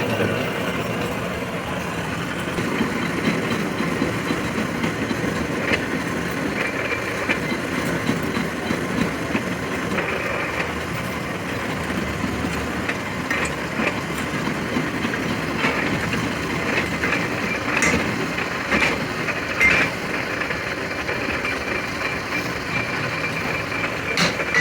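A truck axle spinning in a lathe-type turning machine: a steady mechanical running noise with short metallic clicks and ticks scattered through it.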